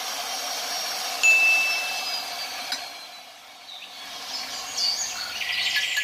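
A steel pipe rings with a clear high tone after a knock against the pipe-threading machine, fading over a couple of seconds. Light metallic clinks follow near the end.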